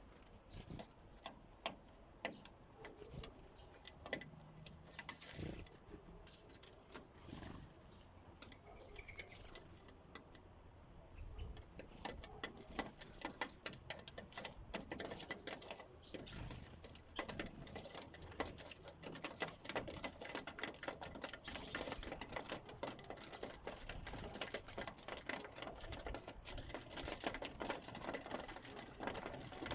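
Sparrows pecking seed at a bird feeder: a rapid, irregular tapping of beaks on the feeder. The taps are scattered at first and become dense and continuous about twelve seconds in.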